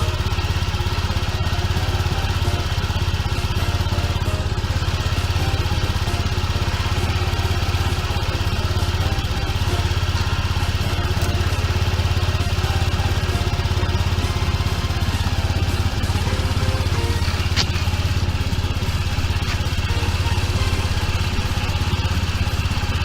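Engine idling steadily, with an even low hum and no change in speed.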